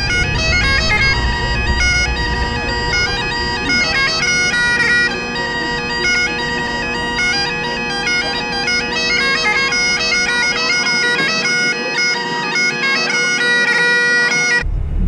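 Bagpipes playing a tune: the chanter's melody steps from note to note over a steady drone. It cuts off suddenly near the end.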